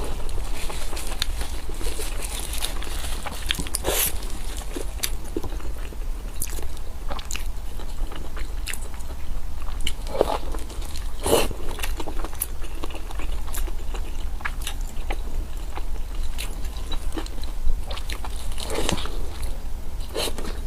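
Close-miked chewing and biting of food, with irregular crunches and sharp crackles coming every second or so.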